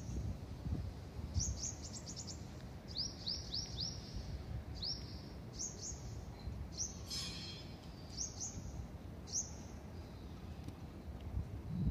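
Small birds chirping: short, high, downward-sweeping chirps, several times in quick runs of three to five, with one harsh, scratchy call a little past halfway.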